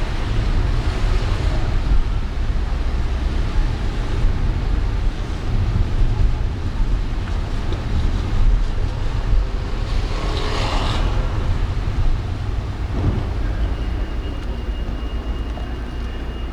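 Car driving through city traffic: a steady low rumble of engine and road noise. A brief hissing swell comes about ten seconds in, and a thin, faint steady tone begins near the end.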